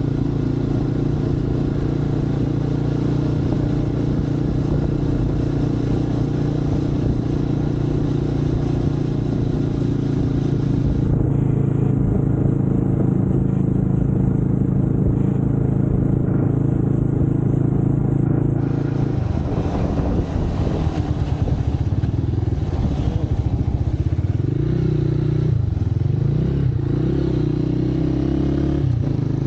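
Motorcycle engine running at a steady speed while riding, heard from the bike itself. From about two-thirds of the way in, its pitch wavers, drops and rises again as the rider eases off and speeds back up.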